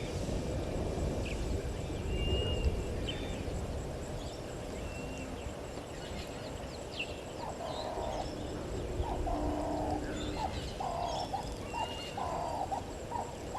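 Wild birds chirping, with short high calls scattered throughout. From about halfway a run of short, lower calls repeats roughly once a second over steady low background noise.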